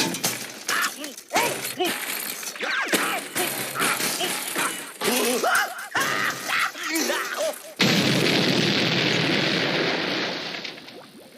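Cartoon explosion sound effects: a quick jumble of short cartoon sounds, cries and impacts, then a sudden loud explosion about eight seconds in, whose noise fades away over the next three seconds.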